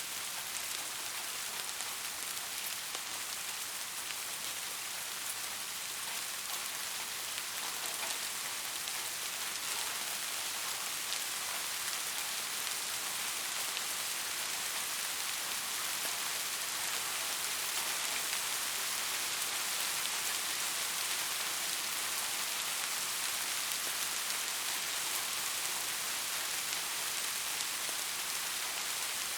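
Steady rain falling on hard surfaces: an even hiss with scattered drop ticks, swelling slightly about halfway through.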